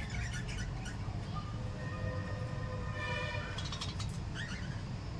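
Pet budgies and lovebirds chirping in short, high calls, over a steady low rumble. A held, even-pitched tone sounds for about a second and a half midway.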